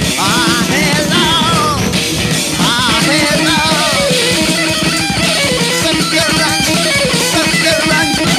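Rock music played by a band: guitars over a steady drum and bass rhythm, with a high melody line that bends up and down.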